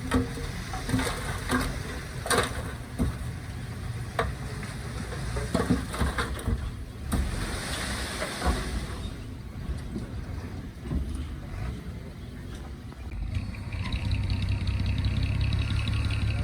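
Diesel engines of earthmoving machinery (bulldozer and dump truck) running, with scattered knocks and clanks. There is a hiss lasting about a second and a half near the middle, and a steadier, louder engine note comes in near the end.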